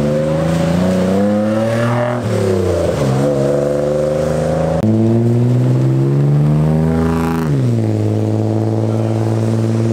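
Car engines accelerating hard away on a wet road. The revs climb, then drop sharply at a shift or lift-off about two seconds in and again about seven and a half seconds in, then settle.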